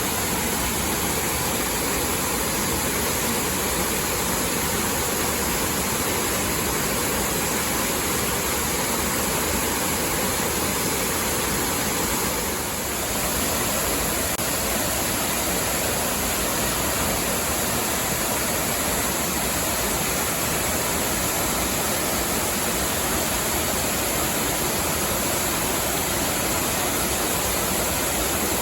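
Waterfall: a steady rush of falling water, with a brief dip in loudness about halfway through.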